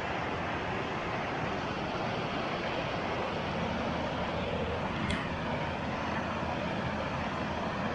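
Steady rush of whitewater rapids on a river, with a single sharp knock about five seconds in.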